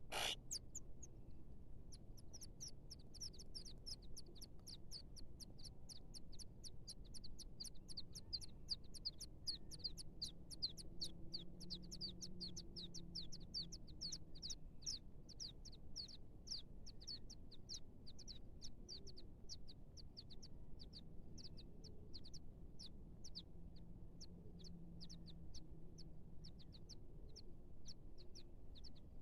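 A small bird chirping over and over, short high down-slurred notes at about three a second, thinning out and fading near the end. A brief click comes just before the chirping.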